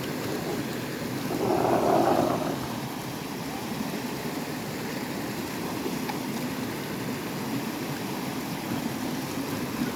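Steady rushing, splashing water, louder for a moment about two seconds in.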